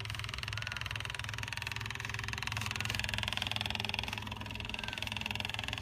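Electric fuel pump of a Jaguar XJ6 running steadily on test with a fast, even buzz, showing the pump is working.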